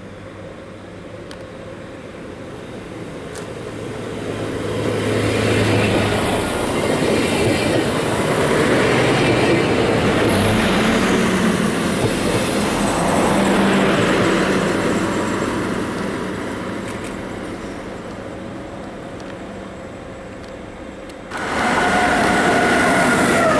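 A train passing through a station, the rumble of its wheels on the track growing louder, holding, then fading away. Near the end, loud train noise starts abruptly, with a steady high whine in it.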